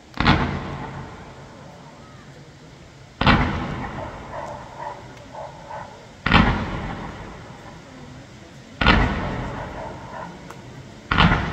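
Fireworks display: aerial shells bursting with loud booms, five of them two to three seconds apart, each trailing off in a long echo.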